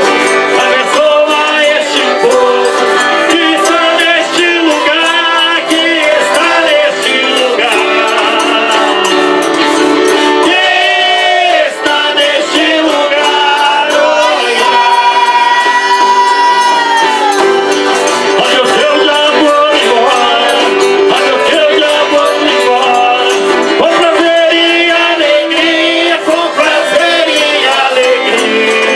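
A Folia de Reis group performing: male voices singing a folk song over instrumental accompaniment, with a long held note about halfway through.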